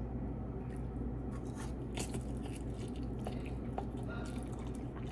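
Faint chewing and wet mouth clicks of someone eating instant noodles, over a steady low hum.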